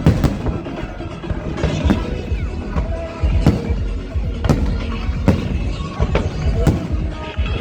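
Fireworks display: aerial shells bursting with sharp bangs at irregular intervals, roughly one a second, over a low rumble, with music playing alongside.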